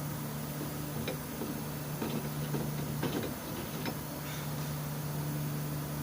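Several light clicks and taps of tools and parts being handled during a differential repair, over a steady low hum.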